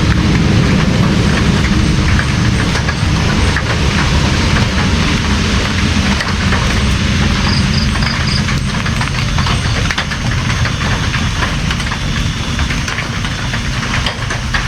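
Steady, loud rainfall with many close drop hits and a constant low rumble.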